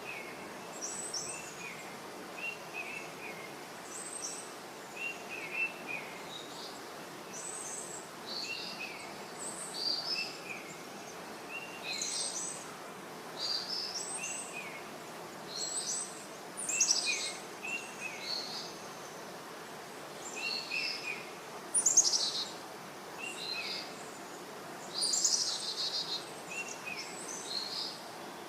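Several birds calling: short chirps that slide down, repeated every second or two, mixed with higher-pitched calls.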